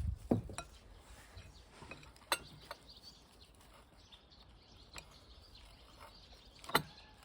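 A few scattered light clicks and knocks over a quiet background, the sharpest one near the end.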